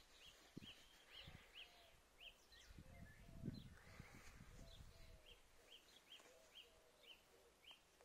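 Faint birdsong: a bird repeating short high chirps about twice a second, with fainter lower notes between them. A low rumble on the microphone rises around the middle.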